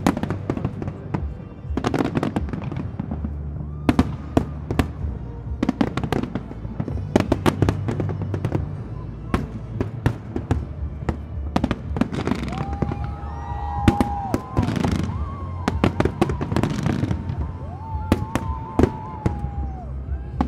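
Aerial firework shells bursting in a dense, irregular barrage of bangs and crackles, over a steady low rumble. Long held tones sound over the bangs in the second half.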